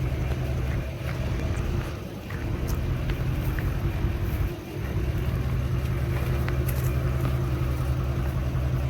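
Steady low engine drone with an even pulsing rumble, taken on site for a running generator; it dips briefly twice.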